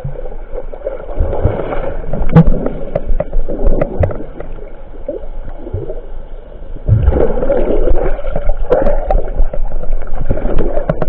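Sea water sloshing and gurgling, with irregular swells and scattered sharp splashes or knocks.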